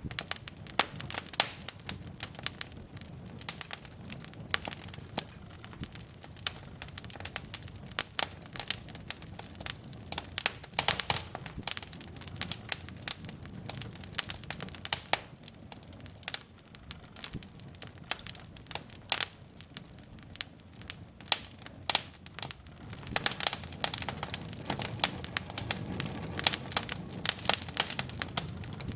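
Wood fire of burning logs in a fireplace crackling, with irregular sharp pops and snaps over a low steady rumble of flame.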